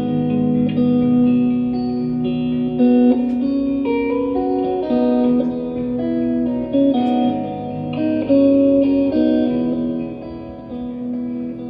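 Live band music in an instrumental break: guitar playing sustained, effects-laden notes that change every second or so, growing quieter near the end.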